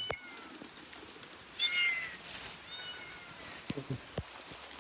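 A kitten meowing: three short, high-pitched meows that each fall in pitch, the loudest about two seconds in.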